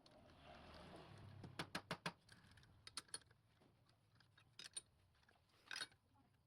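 Faint scattered clicks and taps: several in quick succession about one and a half to two seconds in, then a few single ones spaced out.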